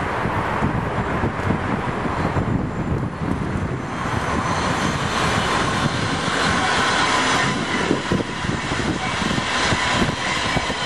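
Regional train of red n-coaches with its locomotive at the rear passing on the tracks: a steady rumble of wheels on rail, joined about four seconds in by a whine of several steady tones as the locomotive goes by.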